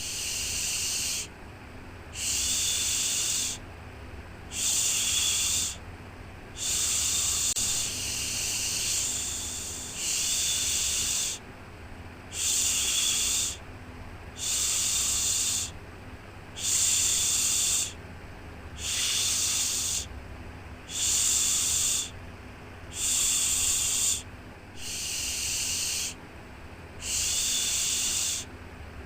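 A rhythmic 'shhh' shushing sound for soothing a baby, repeated about once every two seconds, each shush lasting just over a second with a short pause between. A faint steady low hum runs underneath.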